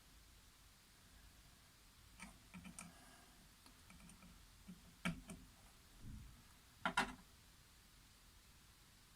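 Faint, scattered clicks and taps of a multimeter and its test probes being handled, a handful over several seconds, the loudest about five and seven seconds in.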